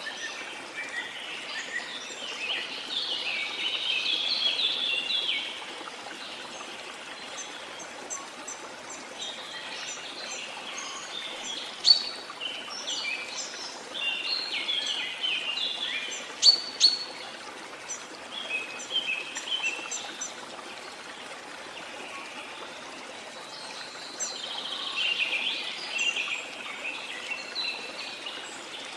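Birds singing and chirping in spells over a steady rush of falling water. The loudest moments are a few sharp chirps about twelve and sixteen seconds in.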